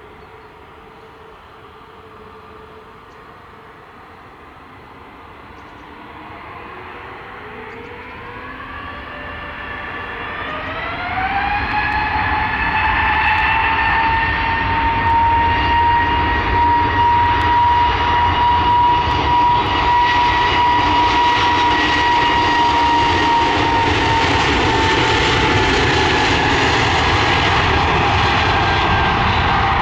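Airbus A320neo's CFM LEAP-1A jet engines spooling up to takeoff thrust. A low steady hum gives way, about a quarter of the way in, to a rising whine, which levels off into a loud, steady roar with a high whine on top.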